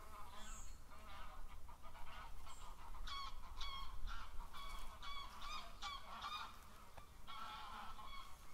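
Birds calling in a run of short, repeated notes, about two or three a second, with a pause near the end before a few more; a low steady rumble lies underneath.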